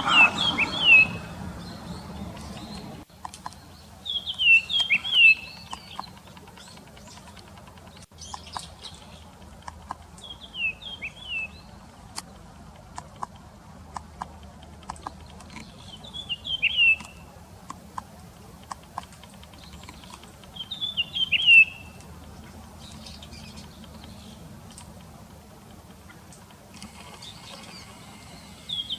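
Japanese grosbeak calls: about five short groups of quick, downward-slurred notes, a few seconds apart, with faint clicks between them.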